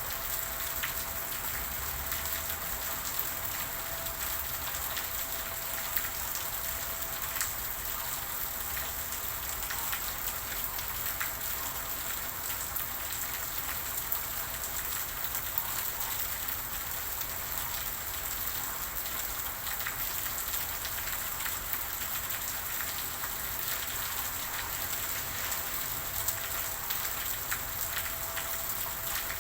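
Steady rain falling on a surface, an even patter with scattered sharper drops ticking through it.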